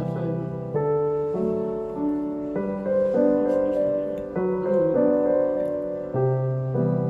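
Background piano music: slow, gentle chords that change about once a second.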